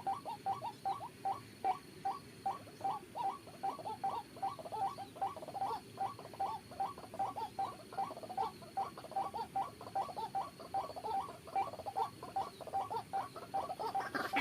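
White-breasted waterhen's monotonous call, short notes repeated in a steady, even rhythm of about three a second.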